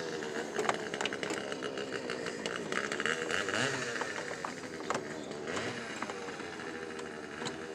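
Clicks, knocks and small metallic clatter of hand work on car parts as a stuck part is forced back into place, with a quick run of rapid clicks about one to three seconds in.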